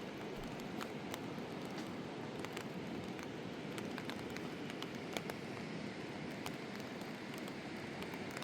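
Steady rain falling, with many single drops ticking sharply on nearby surfaces.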